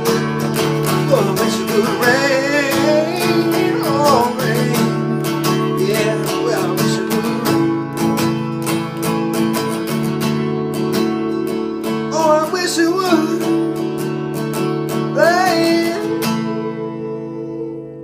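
Strummed acoustic guitar with sung vocal runs over it, closing out a soul ballad. The strumming stops about sixteen and a half seconds in, and the last chord rings out and fades.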